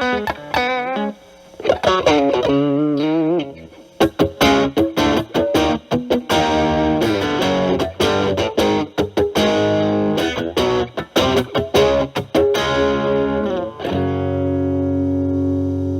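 Electric guitar (a single-coil Stratocaster) played through a Boss DS-1 distortion pedal into a Marshall Valvestate amp, giving a distorted lead tone. It opens with bent notes and vibrato, moves into quick picked runs, then rings out on a sustained chord near the end.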